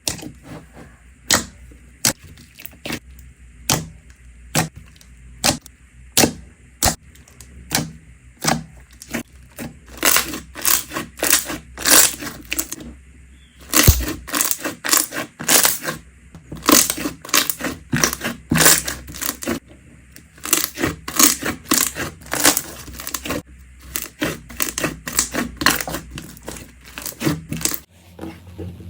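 Slime being pressed and poked by hand, giving a string of sharp, irregular clicks and pops. These are sparse at first and then come in fast clusters.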